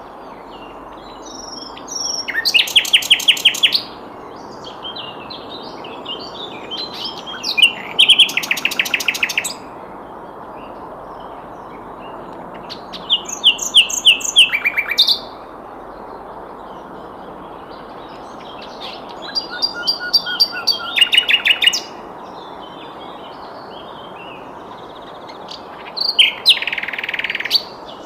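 Sikatan londo flycatcher singing: five loud phrases of fast, rapidly repeated high notes, several seconds apart, with softer scattered chirps between them.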